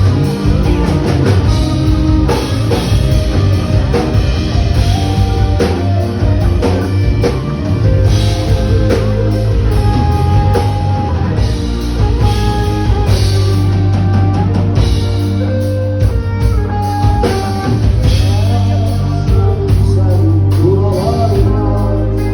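Live rock band playing an instrumental passage, with a drum kit keeping a steady beat under a lead melody of held notes.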